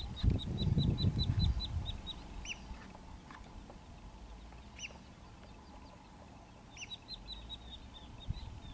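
Bird calls: a rapid run of short, high chirps, about five a second, near the start and again about seven seconds in, with a few single falling whistles in between. A low rumble, the loudest sound, fills the first two seconds.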